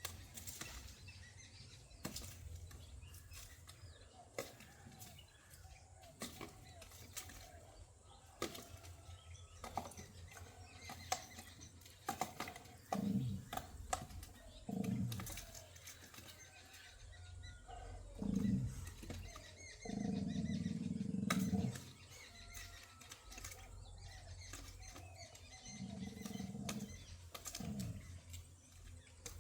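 Pigeons cooing in low calls of up to about a second and a half, mostly in the second half, among wing flaps, scattered clicks and faint chirps.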